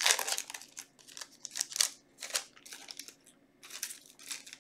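Foil Yu-Gi-Oh booster pack wrapper being torn open and crinkled, a run of irregular rustles and crackles that is loudest at the start and thins out toward the end.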